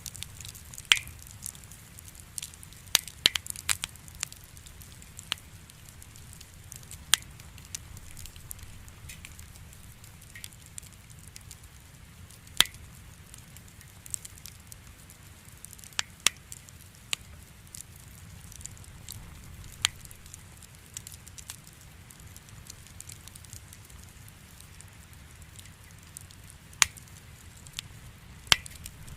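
Wood campfire burning with a soft low rumble of flames, and the firewood crackling and popping in sharp, irregularly spaced snaps, several in quick clusters.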